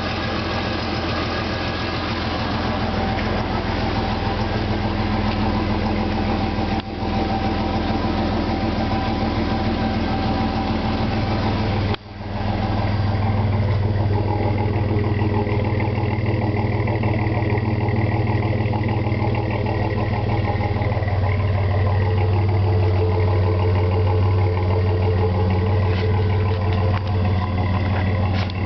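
Chevy 4.3 L Vortec V6 idling steadily and low through a Flowmaster 40 series single-in, dual-out exhaust with a high-flow cat and the factory resonator removed. The sound cuts out briefly about twelve seconds in, and the low exhaust note is louder afterwards.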